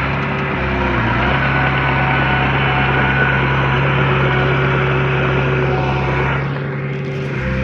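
Heavy diesel engine of earthmoving machinery running steadily under work, a constant low drone with a strong hum. The sound eases briefly near the end, then picks up again.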